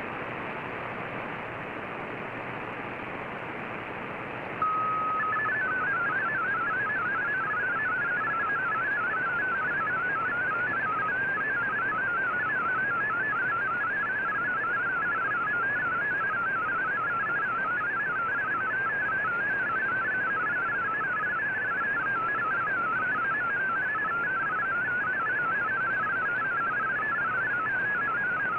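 Shortwave radio hiss, then about four and a half seconds in a brief steady tone followed by a continuous warble of rapidly stepping tones: an MFSK digital text transmission, the VOA Radiogram data signal.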